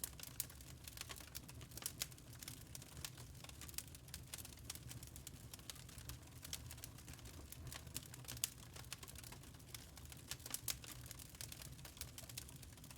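Wood fire burning in a fireplace: irregular crackles and small pops over a low, steady rumble.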